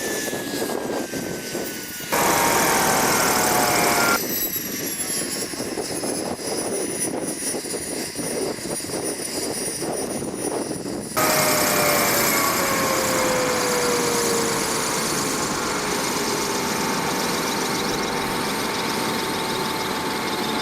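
Model helicopter's Wren gas turbine whining with rotor noise, in several abruptly cut segments. In the last part the whining tones slowly fall in pitch.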